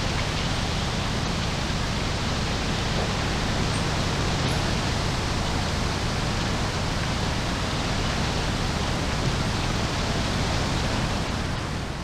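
Strong wind buffeting the microphone: a steady rushing noise with a heavy low rumble, easing off near the end.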